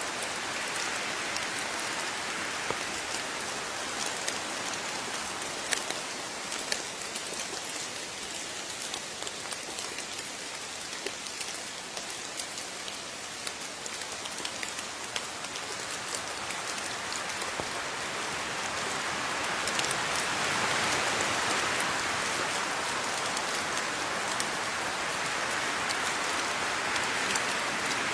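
Steady rain falling, with scattered individual drops tapping on a surface; the rain grows heavier about two-thirds of the way through.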